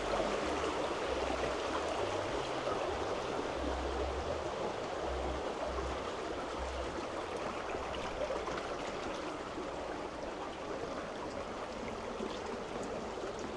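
Rushing water of a river or stream: a steady, dense rush with no break or change.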